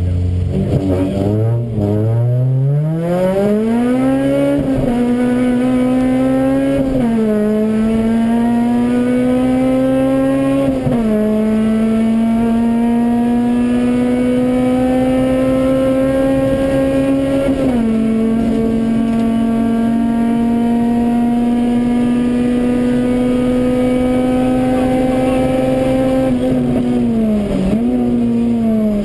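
Honda Civic Type-R rally car's four-cylinder engine heard from inside the cabin at full throttle. It pulls up from the stage start, the pitch climbing and dropping back briefly at each of several quick upshifts. It then holds high, fairly steady revs in a tall gear, with a short lift near the end.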